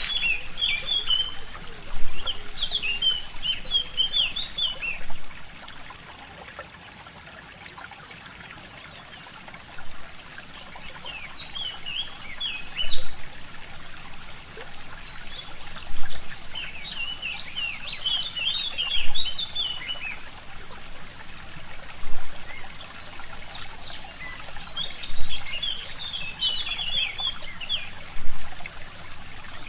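A small stream trickling steadily, with songbirds singing in short twittering phrases every few seconds.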